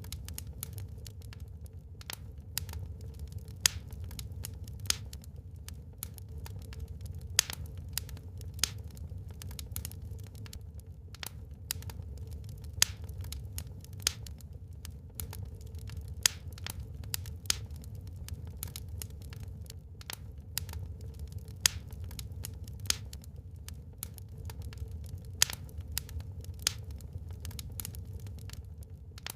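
Wood burning in a fireplace, crackling with irregular sharp pops of varying loudness over a steady low rumble.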